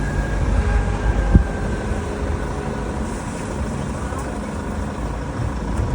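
Steady low rumble of a vehicle under way, with a single knock about 1.4 s in.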